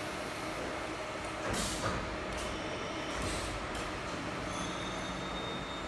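CNC machining center running while it machines a steering rack: a steady machine-shop hum with a few short hisses in the middle and a faint high whine near the end.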